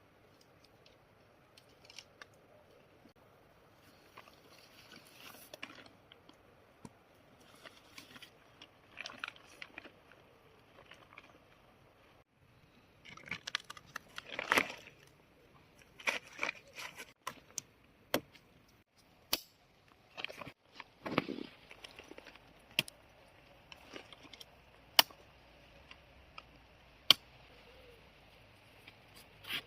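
Close-up handling noises: irregular rustling and crunching, with several sharp single clicks in the second half.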